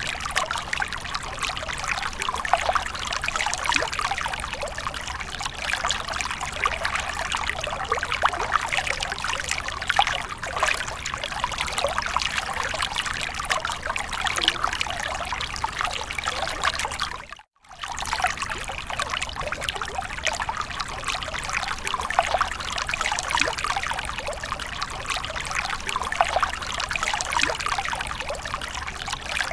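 Water splashing and trickling steadily, a dense continuous patter, broken by a momentary gap of silence a little past halfway.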